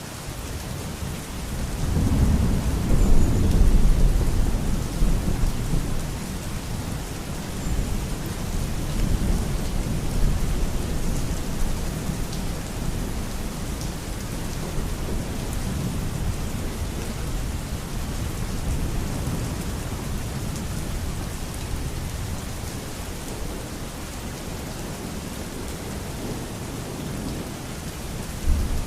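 Steady rain falling, with a long roll of thunder that swells about two seconds in and slowly fades, and another rumble starting near the end.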